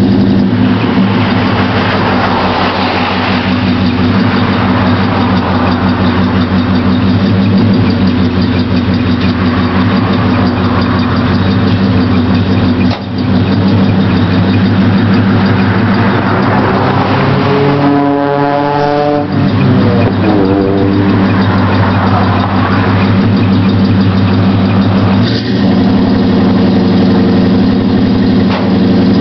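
1977 Chevrolet C10 engine idling cold through a Flowmaster exhaust, still warming up. Its pitch rises and falls once, about two-thirds of the way through.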